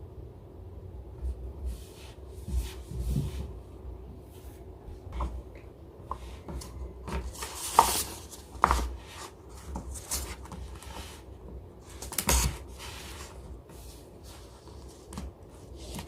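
Hands digging into and cutting through kinetic sand, giving soft crunches and scrapes with scattered clicks and knocks. The loudest knocks come about eight seconds in, again just before nine seconds, and about twelve seconds in.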